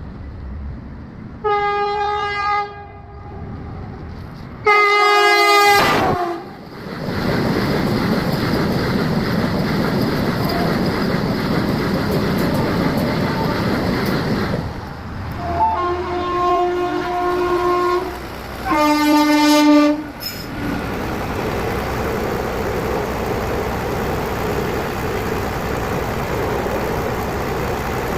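Train horn blown four times, two blasts in the first six seconds and two more between about fifteen and twenty seconds in, over the steady noise of a train running along the track.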